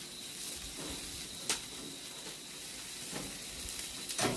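Whole pork belly sizzling over charcoal in a barbecue grill: a steady hiss, with a sharp crackle about a second and a half in and another near the end.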